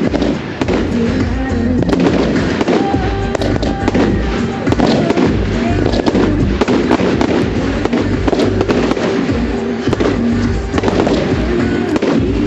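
Firework display: a continuous run of bangs, pops and crackles from the fireworks, over loud music playing alongside.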